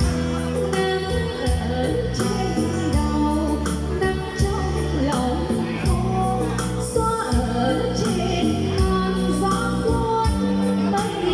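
Live Vietnamese pop music on an electronic keyboard (organ) with a steady programmed drum beat and a singer's voice over it.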